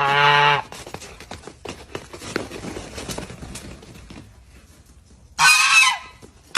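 A loud honk lasting about half a second, followed by quieter scattered rustling and clatter. Near the end comes a short, higher-pitched cry.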